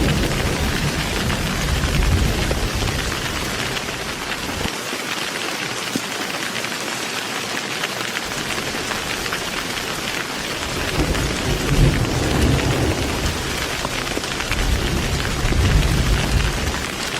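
Heavy rain falling steadily with rolling thunder. The low rumble dies away for a few seconds in the first half, then swells again in the second half.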